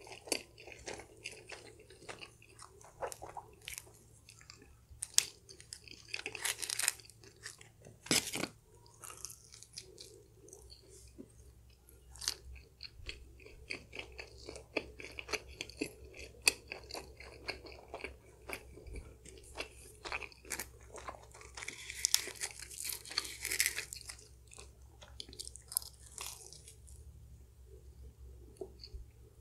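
Close-miked chewing and biting of stuffed-crust pizza, with many irregular small clicks and mouth smacks. There are louder bursts of chewing about a quarter of the way in and again about three-quarters through.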